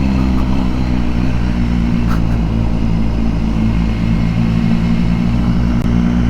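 BMW S1000R's inline-four engine running at steady low revs, its note holding level with no revving.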